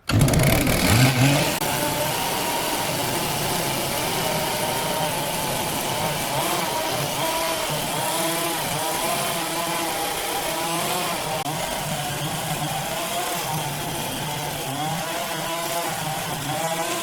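An engine revs up sharply right at the start, then runs steadily, its pitch rising and falling slightly.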